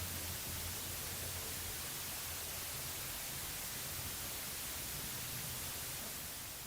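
Steady hiss of dead-air static, strongest in the highs, with a low hum underneath.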